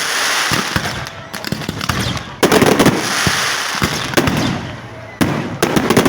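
Fireworks display: a sudden volley of sharp bangs about two and a half seconds in, trailing off into a dense crackling hiss, then another volley just after five seconds.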